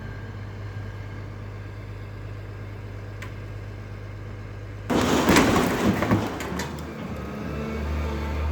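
A heavy engine running with a steady low hum, then about five seconds in a sudden loud burst of crashing and clattering, like demolition rubble falling, that keeps going.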